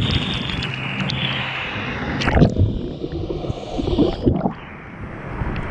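Waterfall water pouring and splashing onto a GoPro action camera, a steady rush of water. About two and a half seconds in, a knock, and then the sound turns muffled, with water gurgling around the camera for a couple of seconds.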